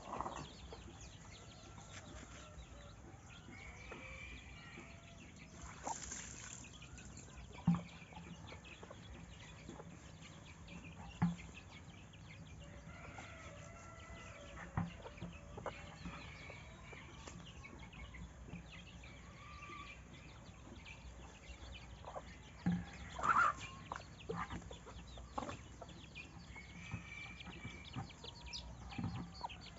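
Chickens clucking, with scattered short calls over a low steady background; the loudest call comes about three-quarters of the way through, along with a few short soft knocks.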